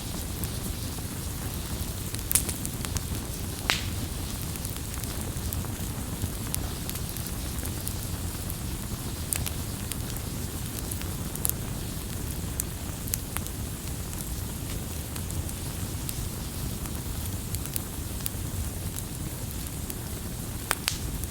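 Campfire crackling: a steady low rumble of burning with scattered sharp pops and snaps, the strongest two in the first four seconds.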